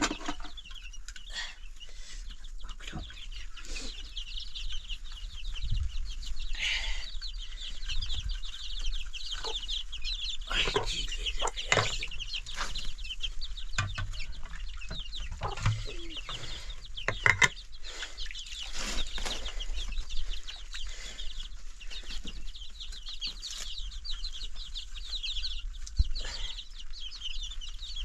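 Chickens clucking, over a dense, steady high-pitched chirping, with scattered short knocks.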